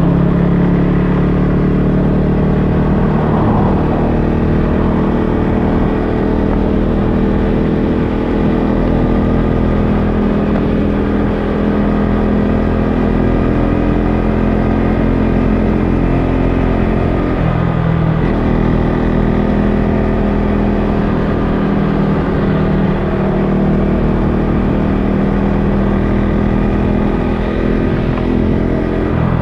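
Husqvarna Svartpilen 401's single-cylinder engine through an SC Project aftermarket exhaust, running steadily while the bike is ridden, its note wavering briefly a little past halfway through.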